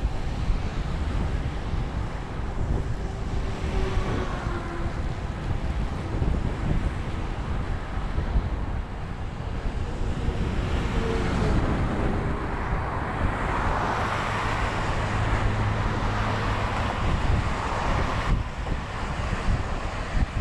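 Wind buffeting the microphone of a camera riding on a moving road bicycle, a steady rough rush that grows somewhat louder for a few seconds past the middle.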